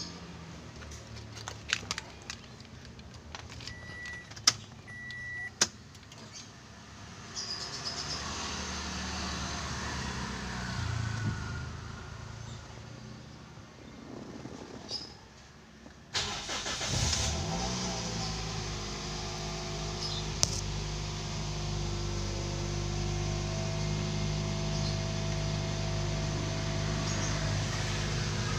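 Clicks and two short beeps, then about halfway through a Toyota Vios Limo's engine is started and settles into a steady idle.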